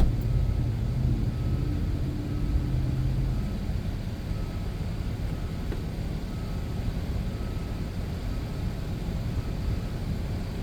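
Steady low rumble of a running motor-driven air tool, with a low hum that stops about three and a half seconds in.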